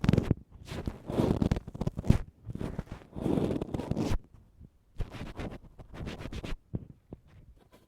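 Ear pick scraping and scratching close against the microphone in repeated rough strokes, about one a second. The strokes are loud at first, then turn into fainter scrapes and clicks about halfway through.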